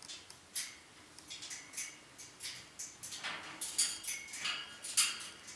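An African grey parrot making a run of short, sharp clicks, irregular at first and coming thicker and louder about three seconds in.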